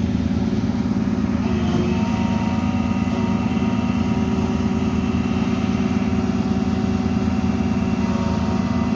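A motor vehicle engine idling steadily close by, with a slight shift in its pitch about two seconds in.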